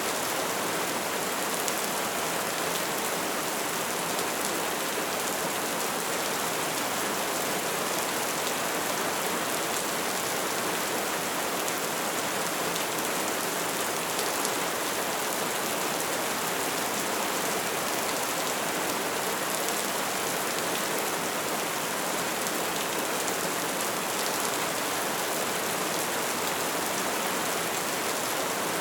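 Bonfire burning with a dense, steady crackle and hiss of flames.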